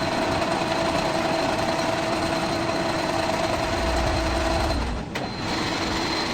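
Metal lathe running while machining a steel pulley: a dense machine noise with a steady whine. About five seconds in the whine drops out and the noise dips briefly with a click, then the machine noise carries on.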